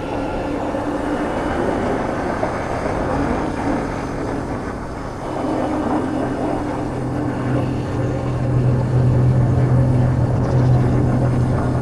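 Motorbike engine running steadily while riding, under heavy wind noise. Its hum grows louder about halfway through and then holds one pitch.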